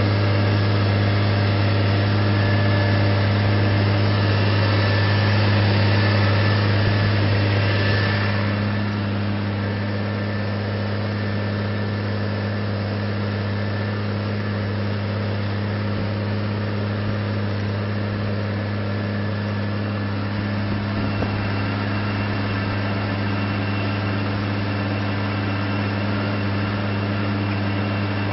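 New Holland T7040 tractor's diesel engine running steadily, pulling a disc plough. It is a constant low hum that eases slightly in level about eight seconds in.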